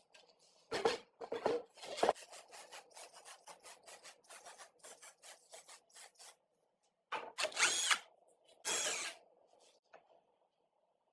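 Quick, even rubbing strokes of a hand tool, about three to four a second, with a few louder strokes at the start. Near the end come two short, louder bursts, the first with a brief whine like a small power tool spinning.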